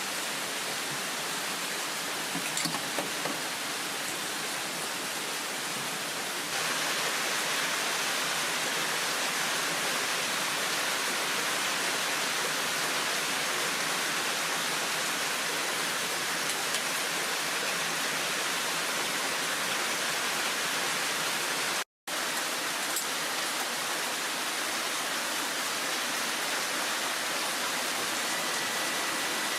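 Heavy downpour: a steady hiss of rain. It gets louder about six and a half seconds in and cuts out for an instant about two-thirds of the way through.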